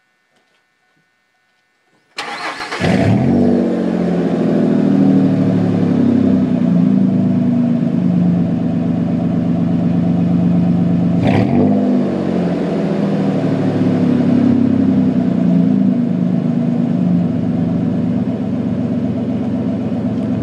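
Ford F-150's 4.2-litre V6 starting up about two seconds in, then running through its exhaust, the engine note wavering up and down with light revving.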